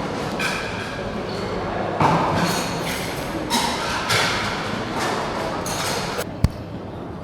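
Busy background of indistinct voices and clatter, with one sharp knock about six seconds in.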